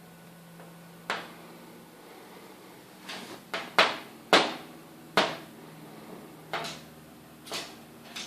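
Woodpecker pecking at wood: single sharp knocks at irregular intervals, about nine in all, not a fast drumming roll.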